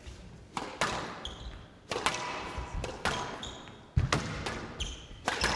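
A squash rally: the hard rubber ball cracks off rackets and the court walls about seven times at an uneven pace. Short high shoe squeaks on the court floor come between the shots.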